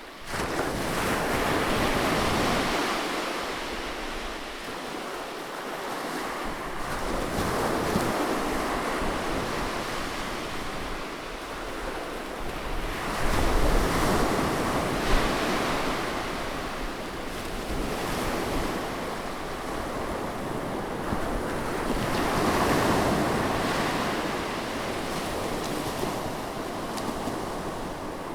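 Ocean surf breaking on a beach, a steady wash that swells and ebbs as each wave comes in every several seconds, with wind buffeting the microphone.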